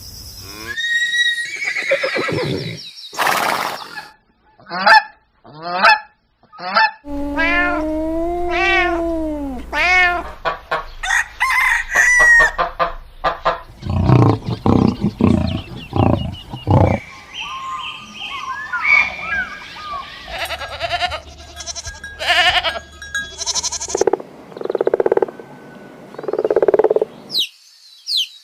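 A run of farm animal calls from one clip to the next, mostly the repeated honking calls of domestic waterfowl. The calls come in short separate bursts, some rising and falling in pitch, with the background changing abruptly every few seconds.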